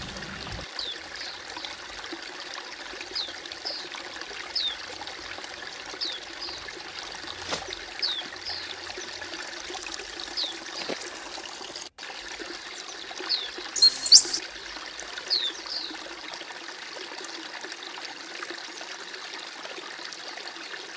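White-eye (pleci) calling: short, high, thin chirps that slide downward, about one every second or so, with a louder burst about 14 seconds in. The calls stop about 16 seconds in. Under them runs a steady sound of trickling, running water.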